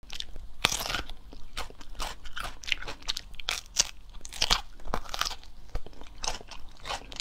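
Crisp crunching of raw bitter melon being bitten and chewed, a quick run of sharp crunches one after another.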